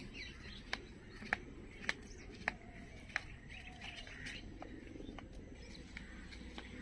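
Birds chirping and calling faintly in the background, with a run of five sharp ticks, a little under two a second, in the first half.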